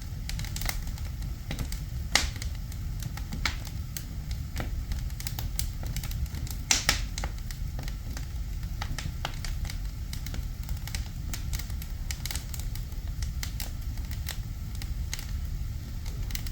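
Wood fire burning in a fireplace, crackling with irregular sharp pops over a steady low rumble; the loudest pops come about two seconds in and near seven seconds in.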